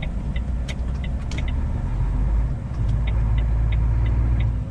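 A truck running along the road, with a steady low engine and road rumble inside the cab, and short regular ticks about three times a second, which fit the turn-signal indicator clicking as the truck takes the exit.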